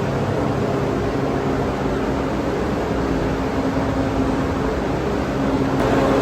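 A machine running steadily: a constant low hum with an even noisy wash over it.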